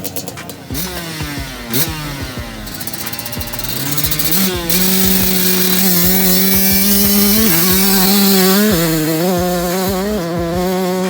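Motocross dirt bike engine revving. It drops in pitch a few times over the first seconds, then climbs about four seconds in and holds at high revs, dipping briefly and picking up again three times.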